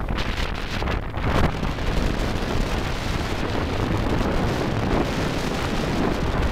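Kymco 250cc liquid-cooled four-stroke engine of a PGO Quadzilla buggy, driven through its CVT, running steadily under way, with wind buffeting the microphone.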